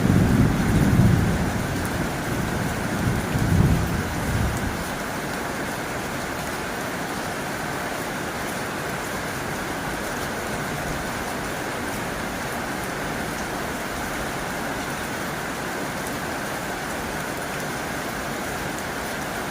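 Heavy rain drumming steadily on a tin roof. Low rumbles swell twice in the first four seconds or so, then fade.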